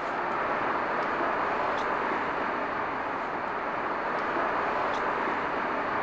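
Passenger train running past on the track, a steady rolling rumble of steel wheels on rails with a few faint high clicks.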